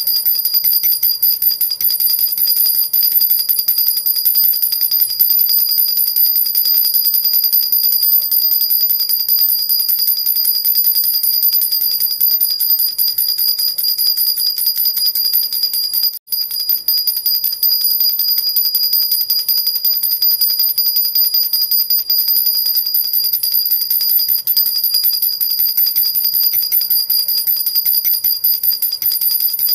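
A metal jhunjhuna baby rattle being shaken without pause, a rapid, even jingling of little bells with a high ringing shimmer. It cuts out for an instant about sixteen seconds in.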